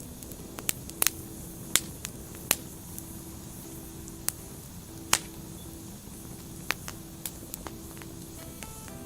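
Burning firewood crackling, with about a dozen sharp, irregular pops over a steady low rush of the flames.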